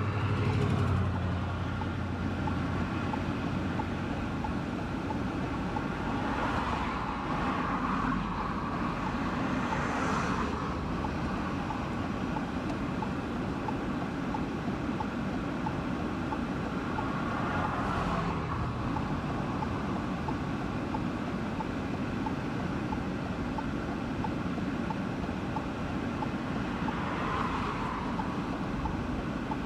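Steady road and wind noise of a car, with a few brief louder whooshing swells, such as passing traffic or gusts.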